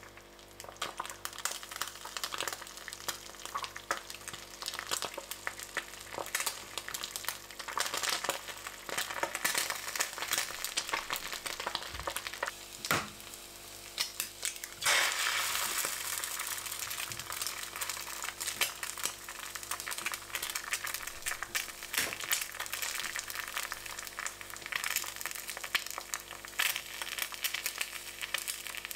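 Food frying in a hot pan: a steady crackling sizzle that swells suddenly louder about halfway through, with a few light knocks.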